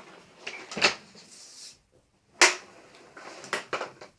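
Two sharp clunks about a second and a half apart, the second the louder, with quieter rustling and handling noise between them.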